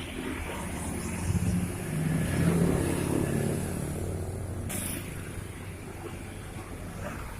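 Heavy truck engine running as the truck passes by, growing louder about a second in and easing off after about three seconds. A brief hiss comes about two-thirds of the way through.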